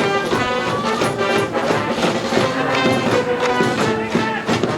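Brass band playing a Japanese high school baseball cheering tune, with a steady drum beat under the horns.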